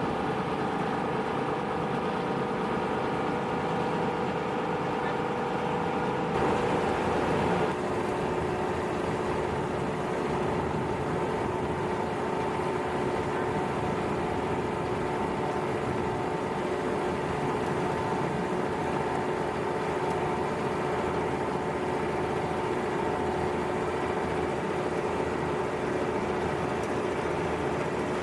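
Industrial machinery of a plastic washing line running steadily: a dense mechanical noise with a steady hum whose pitch shifts about six to eight seconds in.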